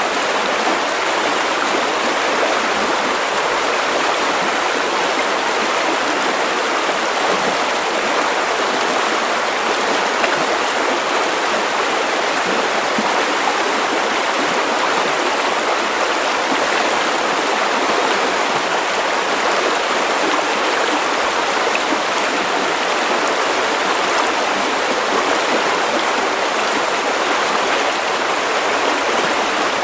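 River water running over stones: a steady, unbroken rush and babble of a stream.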